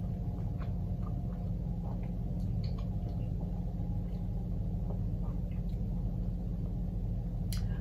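Steady low background hum with faint, scattered small clicks of chewing and eating.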